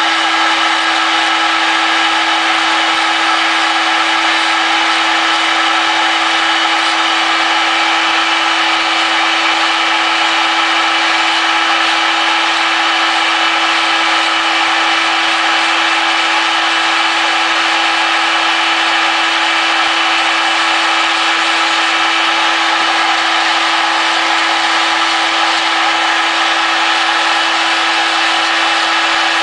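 Corded rotary grinder with a greenstone bit running at a steady, constant-pitched whine while grinding the casting roughness off the ports of a Predator 212 aluminium cylinder head.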